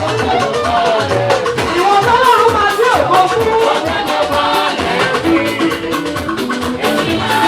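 Live band music with a steady drum beat and bass under a gliding, wavering lead melody.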